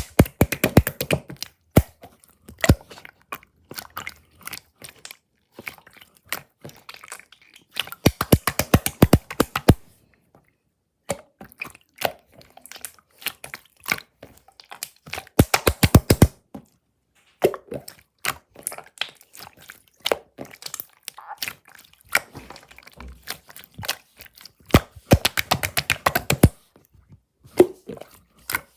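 Slime being squeezed, pressed and stretched by hand, giving bursts of rapid sharp clicks and pops with short pauses between.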